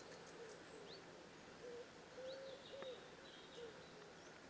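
Near silence with faint birds: a pigeon cooing in short, low, wavering notes that come and go, and a few brief high chirps from small birds.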